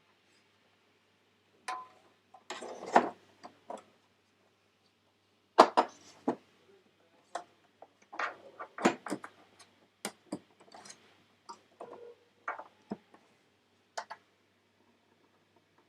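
Irregular clicks, taps and clatter of hard parts being handled inside a Mac Pro tower, in loose clusters of sharp strikes with quiet gaps between.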